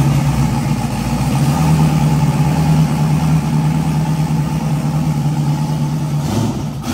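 Built, high-horsepower Chevrolet Camaro V8 idling with a heavy, lumpy note that sounds like a jacked up tractor.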